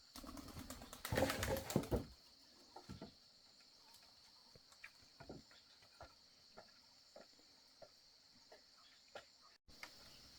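Pigeons cooing and moving about. A noisy flurry fills the first two seconds, then come scattered light knocks and clicks over a steady high-pitched insect drone.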